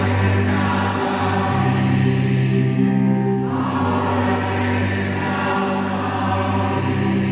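Choir singing long held chords, with the harmony changing a few times.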